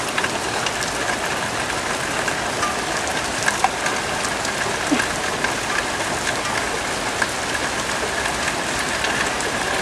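Steady rain falling, an even hiss with a few light ticks of drops.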